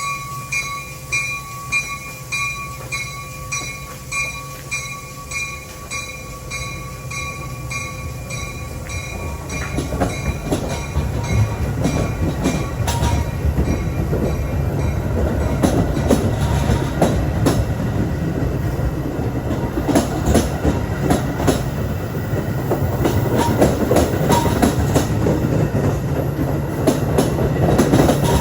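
A bell dings steadily, a little under two strokes a second, for the first several seconds. Then a train rolls by, its rumble growing louder, with the clatter of wheels over rail joints.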